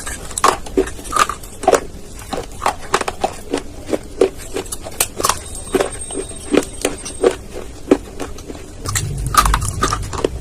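Close-miked crunching of dry baked clay being bitten and chewed: a rapid, irregular run of sharp crunches, several a second. A low rumble joins near the end.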